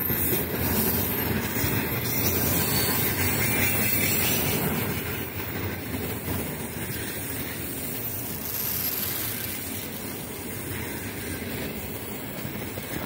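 Container flatcars of a freight train rolling past on the rails, a steady rumble of wheels on track that grows fainter over the second half as the train moves away.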